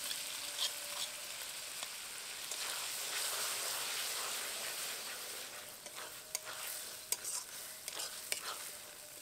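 Spice masala sizzling in hot oil in a pan as cumin, coriander and chilli paste go in, stirred with a spatula. The sizzle eases after about six seconds, and sharp clicks of the spatula against the pan come through.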